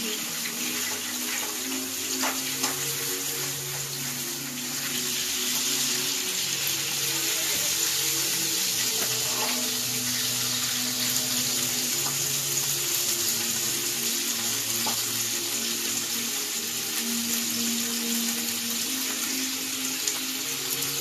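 Chicken deep-frying in hot oil: a steady sizzle that holds through, with faint background music of held low notes underneath.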